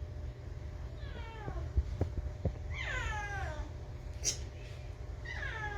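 Stray cat meowing three times, each meow falling in pitch, with a few short clicks between them.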